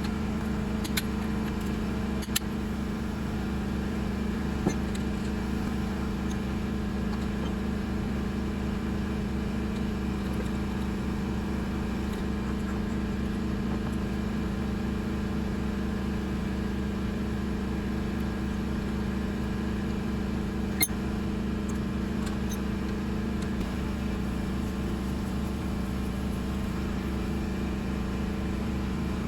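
Changchai L24 single-cylinder diesel engine running steadily at a constant speed after its repair, with a few faint clicks over the top.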